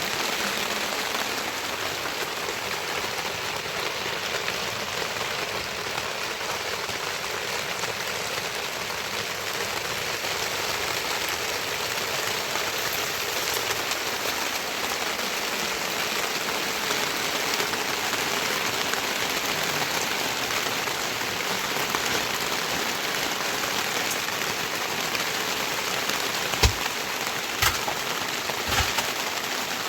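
Steady heavy rain falling, an even hiss of drops. Near the end come three sharp knocks about a second apart.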